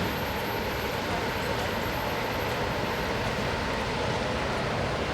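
Freight train rolling past: a steady rumble and rush of wheels on rail that does not rise or fall, with a faint steady high tone above it.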